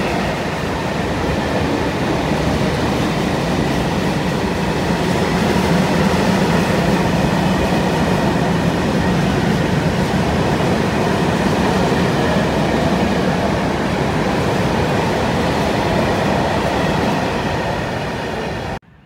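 Freight train of open high-sided Eaos/Eas wagons rolling past: a steady rumble of wheels on rails. The sound cuts off suddenly near the end.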